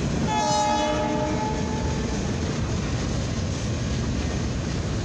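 A CFE mixed freight train's cars roll past with steady wheel and rail noise. About a third of a second in, the locomotive's horn sounds one chord-like blast of about a second and a half, fainter than the rolling cars.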